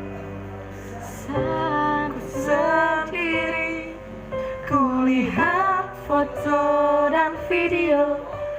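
A woman singing a sustained, ornamented line with vibrato and sliding notes over keyboard accompaniment; her voice enters about a second and a half in, after a held chord.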